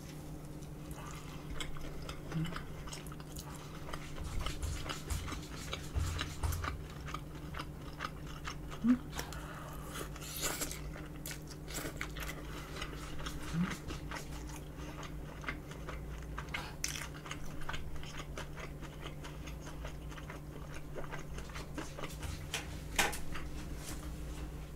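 Close-miked eating: a person biting and chewing crispy fried cheese pork cutlet, with many small wet clicks and crunches and a louder bite about nine seconds in. A faint steady low hum runs underneath.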